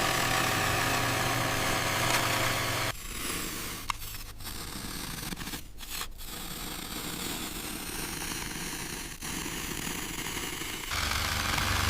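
An engine running steadily. About three seconds in it cuts abruptly to a quieter, rougher machine sound with a few sharp clicks, and near the end it cuts back to the louder engine.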